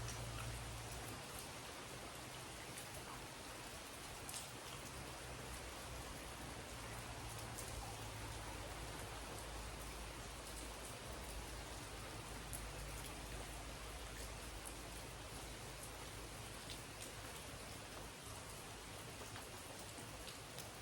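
Steady rainfall with scattered individual drops ticking on surfaces, and a low rumble that comes and goes underneath.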